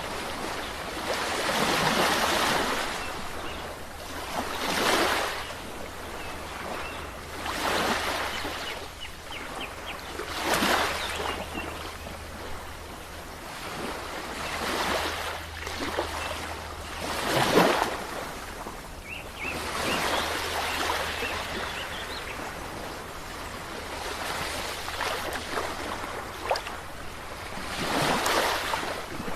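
Sea waves breaking on the shore, the surf swelling and receding every few seconds, with the strongest crash a little past halfway.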